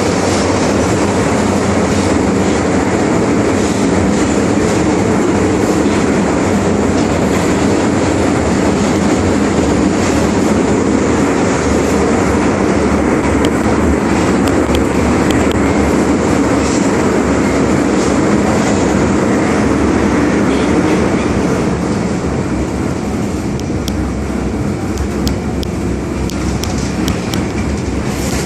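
MTR Island Line metro train running between stations: a steady rumble of wheels on rail and running gear, which eases slightly about two-thirds of the way through.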